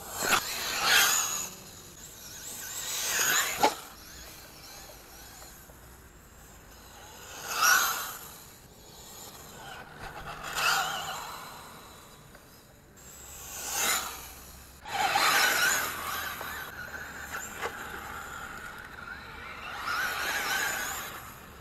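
Brushless 1/10-scale RC monster truck making repeated fast passes, its motor whine and tyre hiss swelling and fading about every two to four seconds. A couple of sharp knocks come between passes, and near the end the motor holds a steady whine for several seconds.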